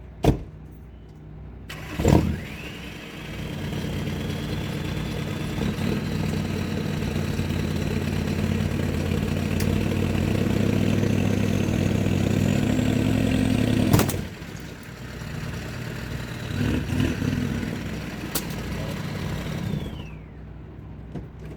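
Mini truck's engine revving under load as it pulls on a tree with a rope, with a high whine rising in pitch. About 14 seconds in, a sharp snap as the rope parts at a knot, and the engine then drops back and runs more quietly until it stops near the end.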